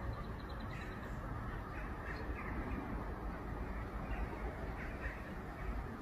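Birds calling in short, scattered cries over a steady low rumble.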